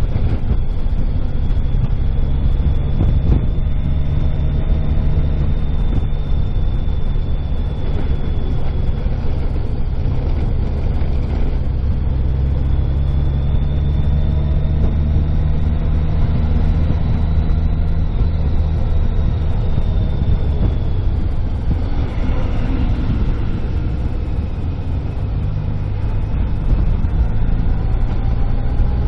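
Vehicle underway on the road: a steady low engine and road rumble with a faint high whine that drifts slowly up and down.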